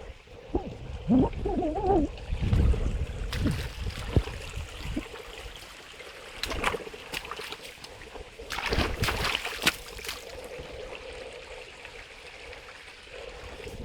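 Water running and splashing in a stream by a waterfall, with a couple of louder surges of splashing about halfway through. A brief wavering voice sounds about a second in.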